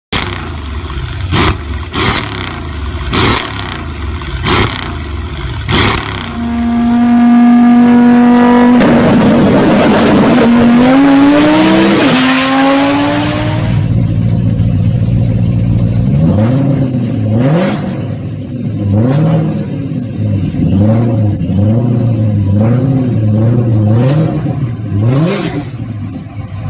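A high-performance car engine being revved. First come sharp cracks about once a second. Then the engine holds a steady high note and climbs in pitch, and after that comes a run of quick throttle blips, each rising and falling.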